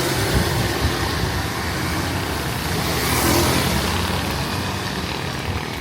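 Road traffic: a motor vehicle passes close, its engine and tyre hiss swelling about three seconds in and fading toward the end, over steady street noise.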